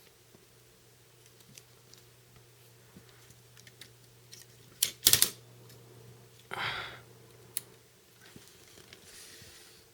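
Small plastic clicks and handling noises of an action figure being moved and posed, with a loud burst of sharp clicks about halfway through and a short brushing rustle just after.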